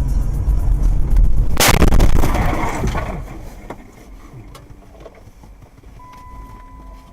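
Car collision heard from inside a vehicle: a low road-and-engine rumble, then one sharp, loud crash about a second and a half in, with crunching and rattling debris for about a second. After that it goes much quieter, and a steady electronic beep starts near the end.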